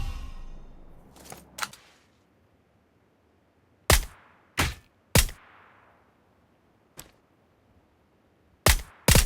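Sharp, shot-like bangs at irregular intervals, the first one's echo fading over about two seconds, then a quick run of several bangs near the end.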